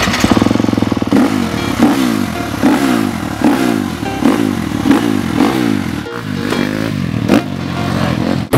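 Motocross dirt bike engine revving hard, its pitch climbing and then dropping about once a second as the rider works the throttle and shifts.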